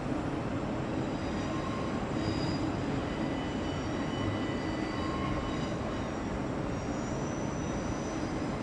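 Train moving over the rails: a steady rumble, with thin high-pitched tones that come and go faintly above it.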